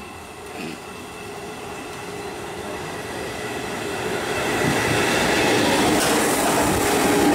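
Electric multiple-unit (EMU) suburban local train approaching along the track and running past close by. Its rail noise grows steadily louder as the coaches draw level.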